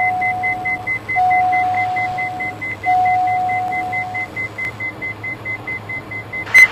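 Cockpit warning tones of a Diamond DA42 NG heard over the intercom during an in-flight engine restart: a rapid high beeping at about five beeps a second, with three long steady lower tones in the first four seconds, over the steady drone of the running engine. The beeping turns much louder near the end.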